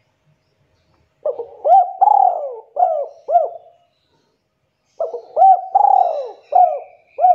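Spotted dove cooing: two phrases of about five coos each, every coo rising and falling in pitch. The first phrase starts about a second in and the second about five seconds in.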